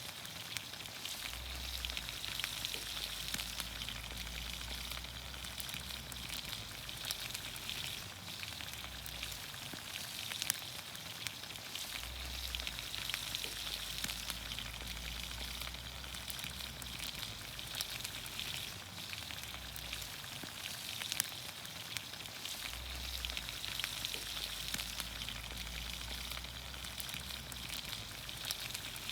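Vegetables in olive oil sizzling steadily in a pan over a campfire, with frequent small crackles and pops.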